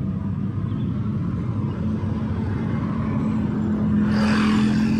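Street traffic: motor vehicle engines running with a steady low hum, and a vehicle passing close by with a swelling rush of tyre and engine noise about four seconds in.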